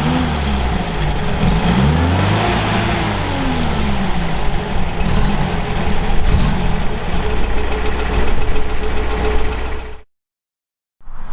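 Off-road vehicle engine under load, its revs falling, then rising and falling again over the first few seconds before running steadily. The sound cuts out abruptly for about a second near the end.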